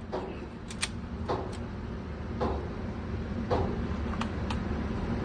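Muffled gunshots from other shooters, about one a second, each with a short echoing tail. A few sharp clicks fall between them, over a steady low rumble.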